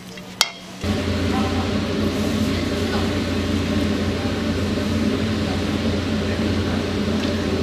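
A click, then a motor starting abruptly just under a second in and running with a steady low hum and a rushing noise over it.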